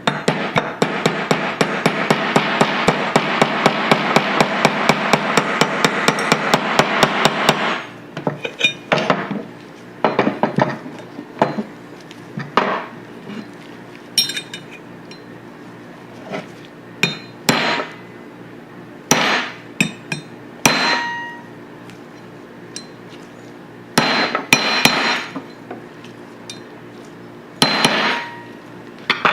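A hammer tapping rapidly on metal, about six light blows a second for roughly eight seconds, as a Tokarev TT-33 pistol part is driven into place during reassembly. After that come scattered single metallic clicks and clinks of steel pistol parts being handled and fitted.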